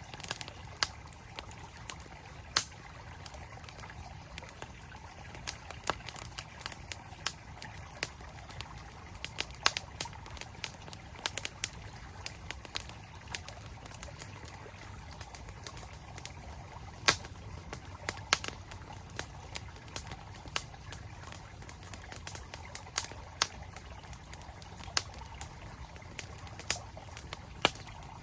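Wood campfire crackling, with irregular sharp pops and snaps, a few of them loud, over the steady rush of a flowing mountain stream.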